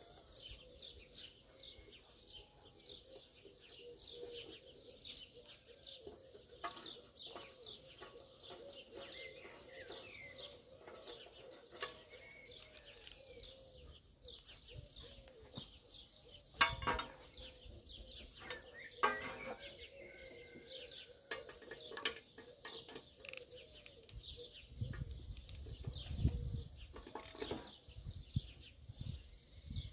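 Birds chirping throughout in quick, repeated short calls, with a few sharp knocks scattered through and a low rumble about 25 seconds in.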